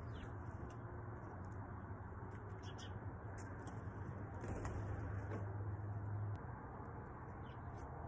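Brief, scattered bird chirps and calls over a steady low hum that drops away about six seconds in.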